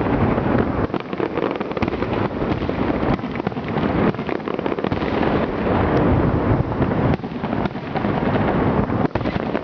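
Large aerial fireworks display: a continuous barrage of shell bursts, many overlapping booms and crackles with no pause between them.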